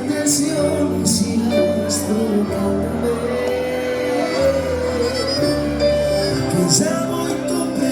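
Live band playing an instrumental passage: a held melodic lead line over changing bass notes, with cymbal strokes.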